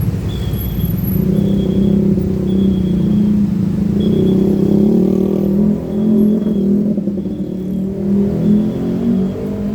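Railway level-crossing warning signal sounding a short high tone about once a second over a steady low rumble of engines.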